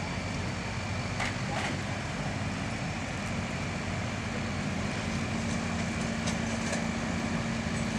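Farm tractor engine running steadily, its pitch rising a little and holding about five seconds in.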